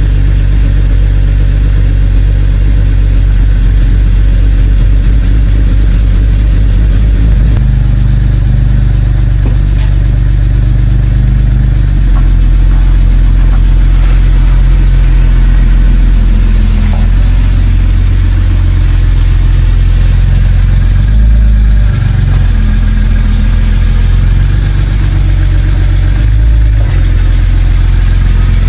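BMW E90 330i's N52 3.0-litre inline-six running steadily just after starting, its note shifting a few times as the revs change.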